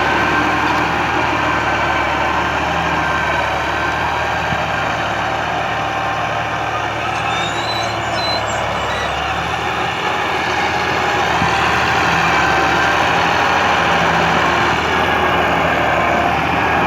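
New Holland 480 tractor's diesel engine running steadily at work, easing off slightly mid-way and picking up again. A few brief high squeaks come about eight seconds in.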